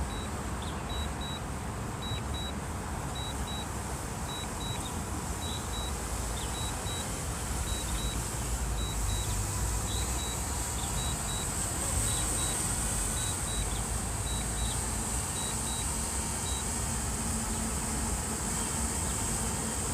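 DJI Mini 2 remote controller beeping its strong-wind warning: short high double beeps about once a second, stopping near the end. Wind rumbles on the microphone throughout, and a high hiss grows louder from about halfway.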